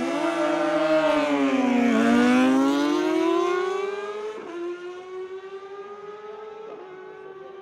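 Superbike engine running loud, its note sliding down for about two seconds and then climbing again. From about four seconds in it holds a steady note while the sound fades.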